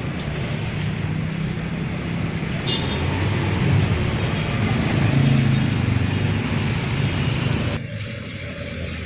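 Road traffic noise with a low engine hum; midway an engine rises and falls in pitch as a vehicle passes. Near the end the sound drops suddenly to a quieter hum.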